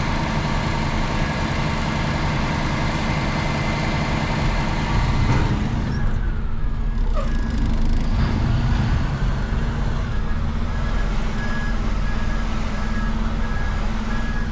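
Hook-lift truck engine running steadily. About six seconds in, a backup alarm starts beeping at an even pace, the sign the truck is in reverse.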